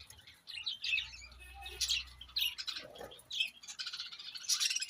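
Small birds chirping in repeated short bursts, several calls a second apart.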